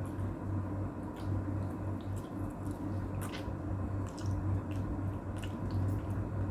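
Eating with bare hands: soft wet squishing and scattered short clicks as rice and chicken adobo in coconut-milk sauce are handled and chewed, over a steady low hum.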